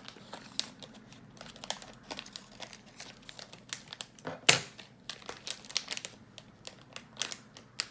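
Blind bag packaging being crinkled and torn open by hand: an irregular run of crackles, the loudest a sharp crackle about halfway through.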